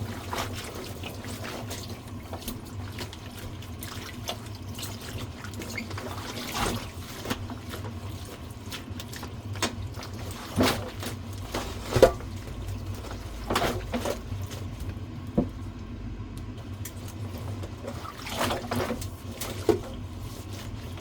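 Water sloshing in a basin as fresh garlic scapes are washed in dilute vinegar water, with a handful of sharp splashes and knocks against the bowl.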